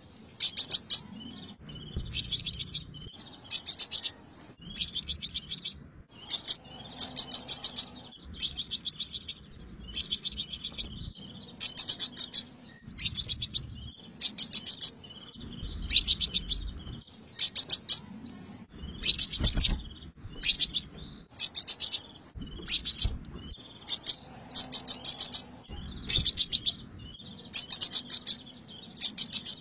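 Sunbird lure call ('hút mật xác pháo'): rapid, high chattering trills in bursts about a second long, repeated one after another with short gaps.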